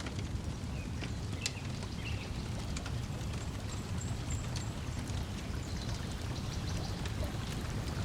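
Crackling wood fire with scattered sharp pops over a steady wash of lapping lake water, and a faint bird chirp about halfway through.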